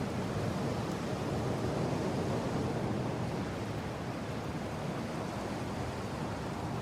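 Mountain wind blowing hard and steadily, an even rushing noise that swells slightly a couple of seconds in and then eases a little.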